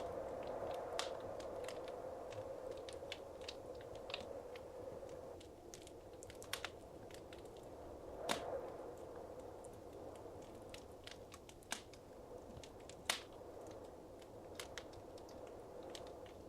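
Wood fire crackling in a fireplace: irregular sharp pops and snaps over a soft steady rush of flame, with louder single pops about eight and thirteen seconds in.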